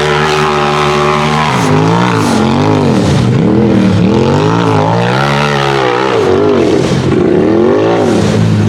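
Side-by-side (UTV) race buggy engine at high revs. It holds steady at first, then is revved up and down over and over, its pitch rising and falling in quick swells, and settles back to a steady pitch near the end.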